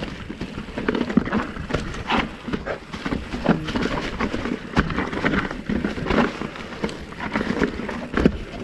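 2019 Commencal Meta TR 29 trail bike clattering down a rough rocky trail: tyres hitting rocks and the chain and frame rattling in a quick, irregular run of knocks.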